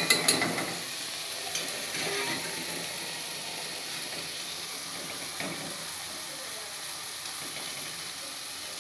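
A metal ladle clacks sharply against the pot a few times. Then tomato masala sizzles steadily in the pan as cooked rice is ladled in on top of it.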